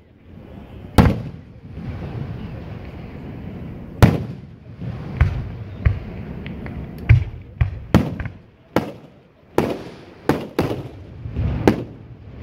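Aerial fireworks shells bursting one after another: about a dozen sharp booms, irregularly spaced and coming faster in the second half.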